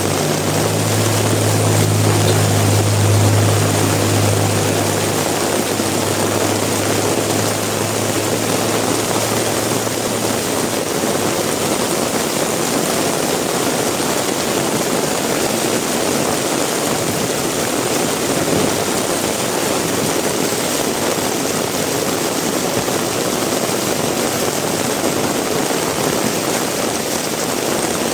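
Heavy rain falling steadily. In the first ten seconds a vehicle's engine hum passes, loudest a few seconds in and then fading away.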